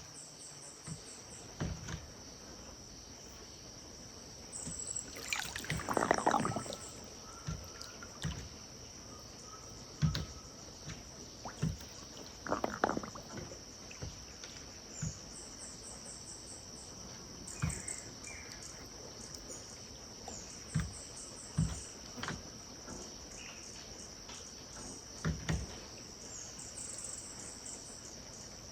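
River water lapping and slapping at the bank in irregular short splashes, with two larger splashes about six and thirteen seconds in. Under it runs a steady high-pitched insect buzz, with repeated pulsed insect chirps.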